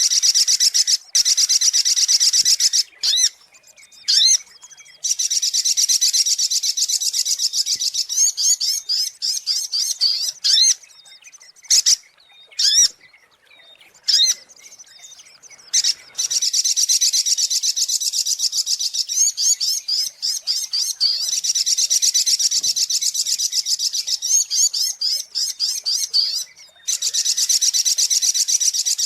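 Little spiderhunter (sogok ontong) calling: long runs of rapid, high-pitched chattering notes lasting several seconds each, broken by short pauses. Single squeaky notes fall in the gaps, around 3–4 and 12–16 seconds in.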